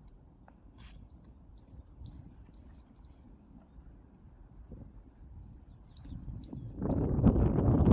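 A songbird sings two runs of a quick, high two-note phrase repeated five or six times. Near the end a loud rushing noise comes in underneath it.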